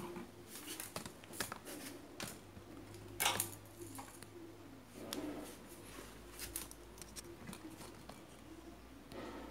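Scattered light clicks and rustles of hands handling small tools and wiring, with one sharper click about three seconds in, over a faint low hum.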